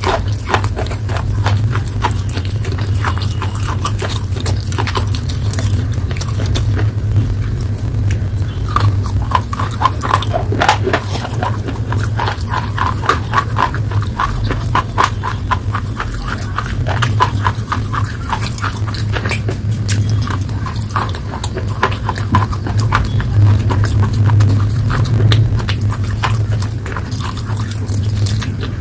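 Close-miked eating of slate pencil paste: continuous chewing with a dense run of crisp clicks, over a steady low hum.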